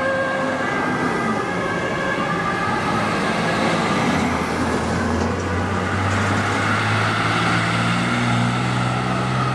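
Fire truck siren sounding over the truck's engine, with the engine note rising steadily from about halfway through as the truck pulls away.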